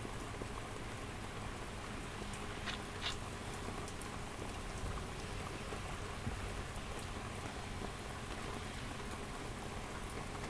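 Steady rain falling, with scattered sharper drop sounds, two of them about three seconds in.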